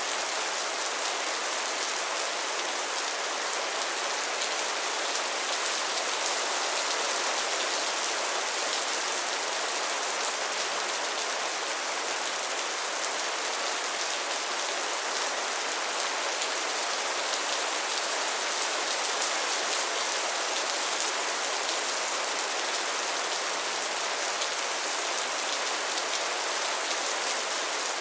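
Steady rain falling, an even hiss of many drops with no thunder or other sounds breaking through.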